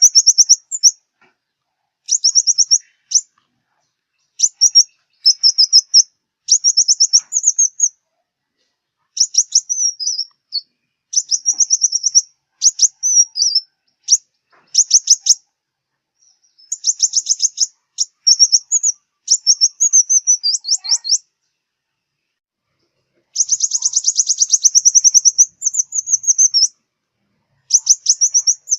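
Song of the sunbird known in Vietnam as the southern five-colour sunbird: bursts of rapid, very high, thin trilled notes, each about a second long, repeated with short pauses, with one longer run of about three seconds near the end.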